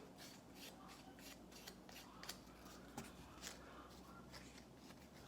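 Faint scraping and a few light clicks of epoxy being spread onto a threaded metal rod, over a low room hum.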